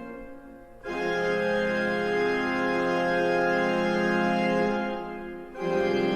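Organ playing slow, sustained chords, with a new chord swelling in about a second in and another near the end.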